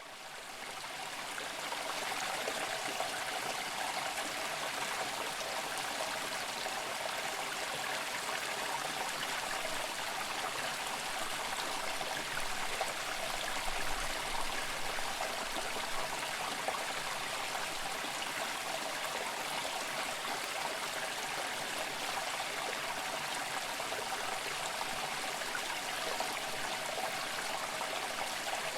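Running water of a stream, a steady, even rushing that fades in over the first two seconds.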